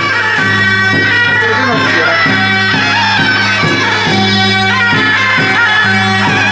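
Taiwanese temple-procession band music: a reedy, wailing wind melody over a steady low drone and regular percussion strokes, played loud and continuous.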